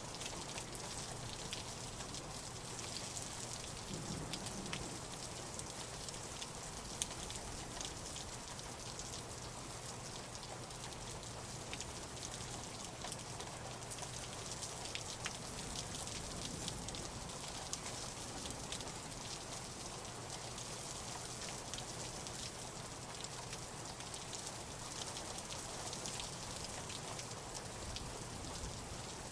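Light rain falling steadily, a constant hiss with the ticks of single drops hitting a surface scattered through it, one sharper drop about seven seconds in.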